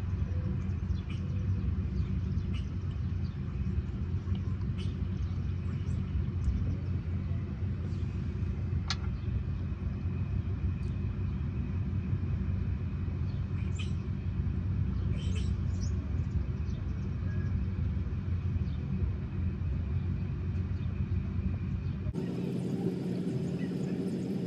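Steady low rumble with faint, scattered high chirps; the character of the sound changes abruptly near the end.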